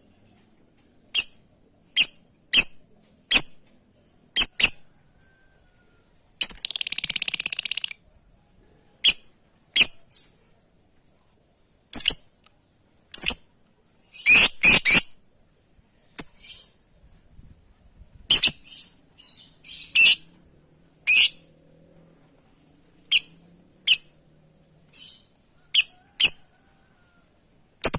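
Lovebird giving sharp, high-pitched contact calls: short single chirps every second or so, with one longer, harsh screech about six seconds in.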